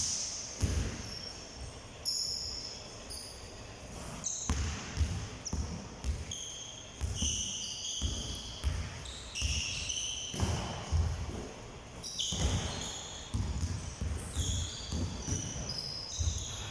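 Basketballs bouncing on a court floor in repeated dull thuds, with many short high-pitched squeaks between them.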